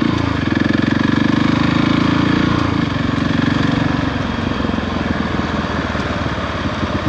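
Adventure motorcycle engine running with a steady firing beat; its note shifts during the first few seconds, then settles and runs a little quieter.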